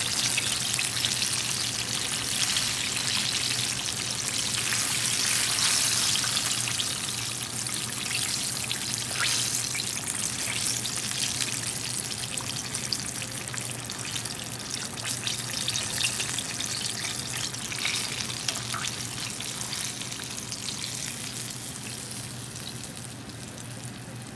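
Chicken drumsticks deep-frying in oil in a cast-iron skillet, their second fry to crisp them: a dense, steady sizzle and crackle that eases off gradually toward the end.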